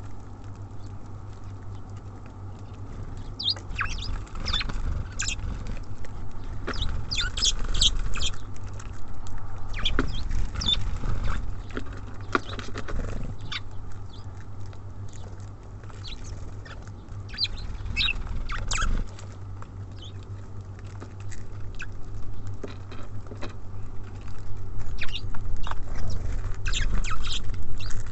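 Small songbirds at a feeder: many quick pecking and scratching taps on the feeder, with short high chirps scattered through, over a steady low rumble.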